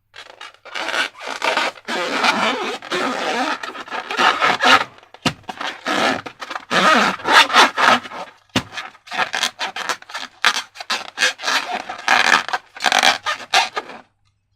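Slime being squished and stretched by hand: a quick run of crackling, scraping squishes with two sharp clicks partway through. It stops shortly before the end.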